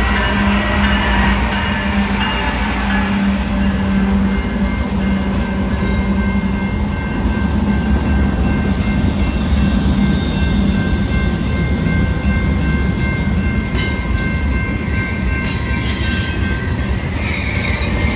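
BNSF freight train passing close by. Its diesel locomotives drone past for the first few seconds, then covered hopper cars roll by with a steady rumble of wheels on rail and a few sharp clanks.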